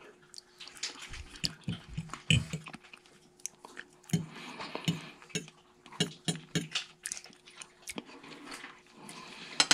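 A person chewing a mouthful of soft, creamy durian flesh: irregular wet smacks and mouth clicks, with a few light taps of a fork on a plate.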